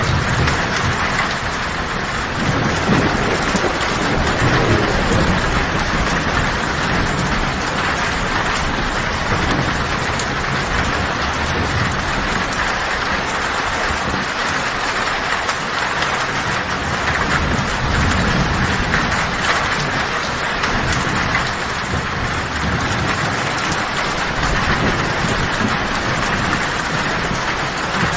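Heavy rain falling on a tin roof, a steady dense hiss, with low thunder rumbling underneath that swells and fades several times.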